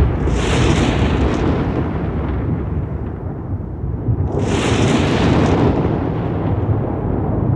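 Rolling thunder rumbling continuously, with two sharper, hissier cracks of thunder, one just after the start and one about four and a half seconds in, each lasting about a second.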